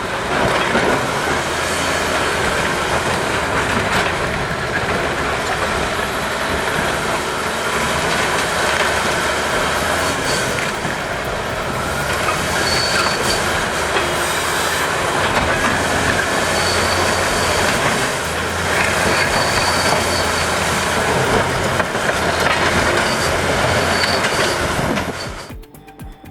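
Heavy machinery running with a loud, continuous metallic clatter and short, high squeals recurring through the second half. It cuts off sharply just before the end.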